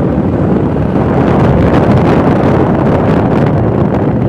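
Loud, steady wind rush buffeting the microphone on a moving motorcycle, with the road and engine noise of the ride underneath.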